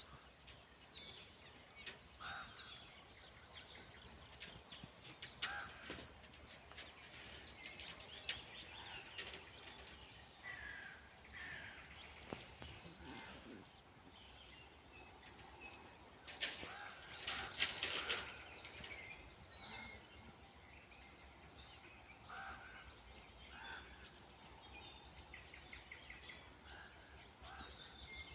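Village birds calling and chirping, many short calls overlapping, with a louder flurry of calls about two-thirds of the way through, over a faint low hum.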